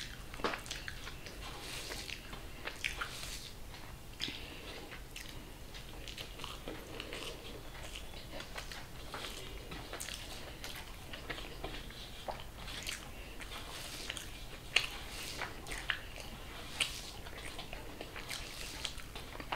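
Close-up eating sounds: wet chewing and lip smacks of a mouthful of rice and egg masala, in short irregular clicks with a few sharper smacks near the end. Soft squishes of fingers mixing rice on a brass plate sit underneath.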